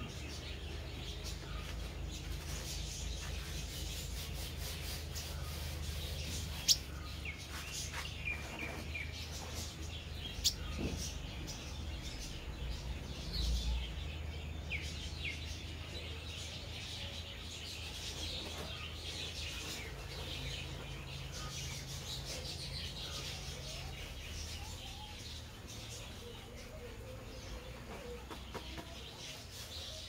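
Small birds chirping: scattered short, high chirps through the whole stretch over a steady low hum. Two sharp clicks about seven and ten seconds in stand out above the chirping.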